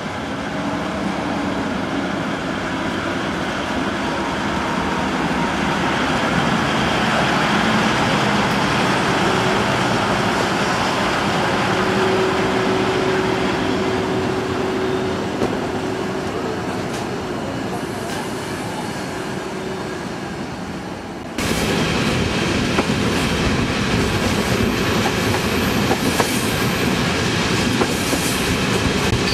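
An electric locomotive hauling passenger coaches slowly past, a faint steady whine over rumbling wheels that swells and fades. About 21 seconds in it changes abruptly to the louder running noise of the train heard from an open coach window, with frequent clicks from the wheels on the rails.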